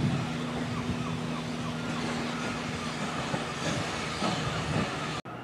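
Passenger train pulling out of a station and rolling away over the rails, with a steady low hum that fades a little after halfway and several brief high squeals. The sound cuts off suddenly near the end.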